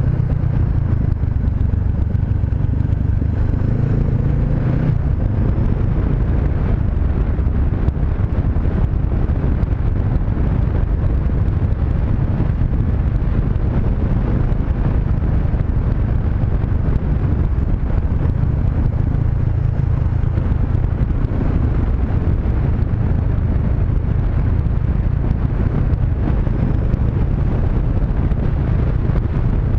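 Honda CB500X parallel-twin engine running steadily under way, with wind noise on the microphone. About four seconds in the engine note rises, then drops at about five seconds.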